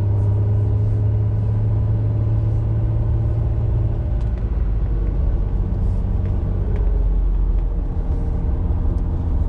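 Honda NSX's V6 engine heard from inside the cabin, running at low revs on a slow drive. Its note drops to a deeper hum about four seconds in and picks up again near the end.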